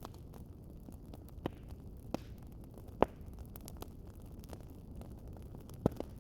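Wood fire crackling in a fireplace: a steady low rumble of flame with scattered sharp pops, the loudest about three seconds in and another shortly before the end.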